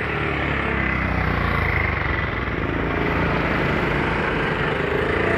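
Small motorcycle engine running steadily at low road speed, with street traffic engines around it.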